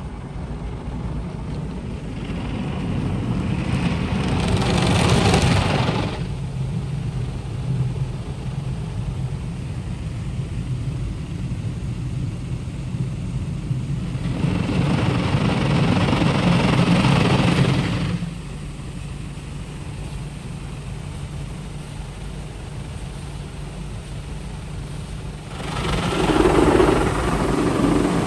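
Automatic rollover car wash working around the car, heard from inside the cabin: a steady low hum with three long swells of rushing noise, about two seconds in, midway, and near the end.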